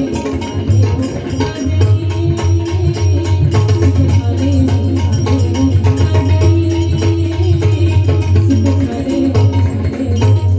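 Instrumental interlude of a Marathi abhang with no singing: pakhawaj drumming in a steady, dense rhythm under a held, stepping melody line, with jingling small percussion.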